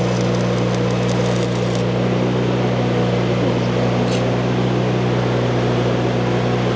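Stick-welding arc crackling over the steady hum of the welding machine; the crackle stops about two seconds in, leaving the hum.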